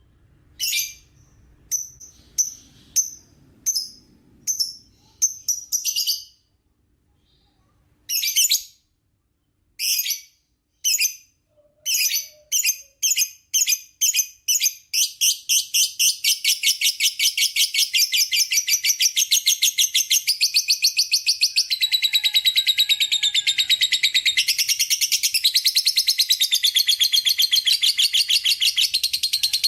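Lovebird chattering: sharp high chirps, separate at first and coming quicker and quicker, then from about halfway one long unbroken rapid chattering trill, the long 'ngekek' song.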